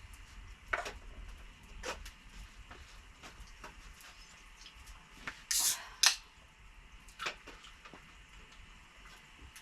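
A handful of short sharp clicks and taps at irregular intervals, the loudest a brief rustle followed by a sharp click a little past halfway, over a faint steady hiss of rain on the tent.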